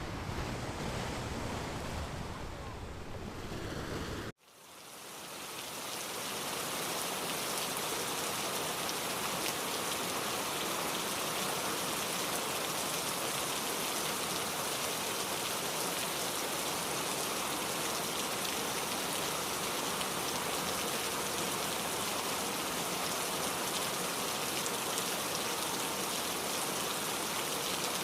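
Low rushing wind-like noise that cuts off suddenly about four seconds in, followed by a steady hiss of rain that fades in over a couple of seconds and carries on.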